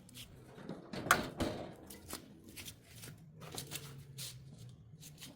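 Irregular light clicks and knocks of things being handled, the loudest about a second in, with a faint low hum under the second half.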